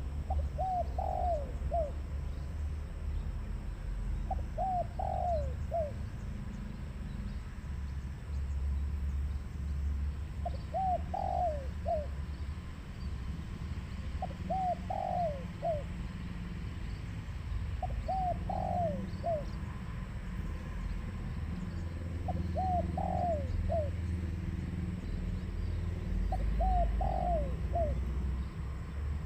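Spotted dove cooing: seven short phrases of three or four quick notes, one every three to four seconds, over a steady low rumble.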